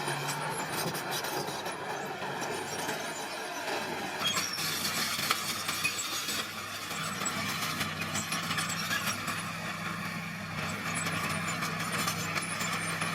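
Small crawler bulldozer's diesel engine running steadily under load, with a constant clinking rattle from its steel tracks and the stone being pushed. The sound turns harsher and hissier about four seconds in.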